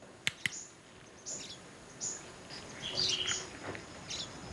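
Birds chirping in short high calls, a few each second, over a faint steady background. Two sharp clicks come just after the start and are the loudest sounds.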